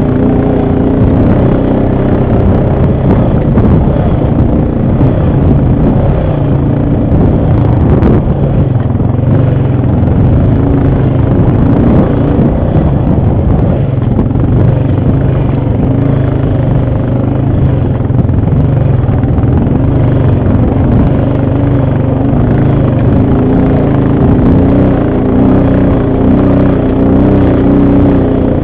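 ATV engine running under way, its pitch shifting up and down as the throttle changes, over a constant rumble. There is a single sharp knock about eight seconds in.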